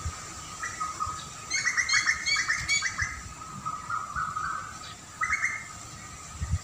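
Wild songbirds calling: a quick run of about eight chirps starting about a second and a half in, then scattered shorter calls, over a faint steady high whine.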